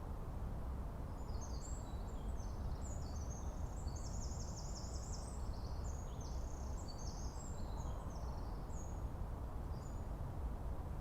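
Forest ambience: a steady low rumble under a small bird singing, with short high chirps and a fast trill from about a second in until near the end.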